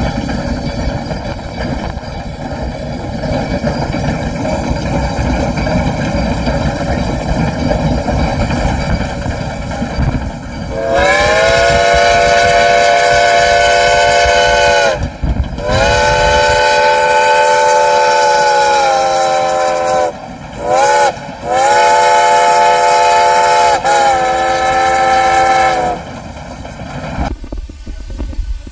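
Steam locomotive running with a heavy rumble, then its chime whistle sounding two long blasts, a quick short pair and a final long blast, the grade-crossing signal.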